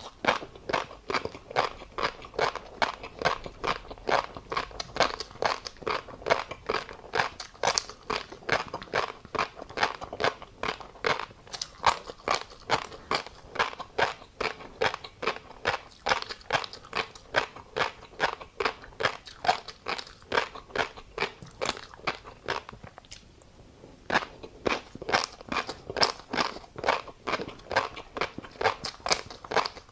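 Close-up chewing of tobiko (flying fish roe): a fast, continuous run of crisp crunches and pops, about three to four a second, with a short pause about three-quarters of the way through.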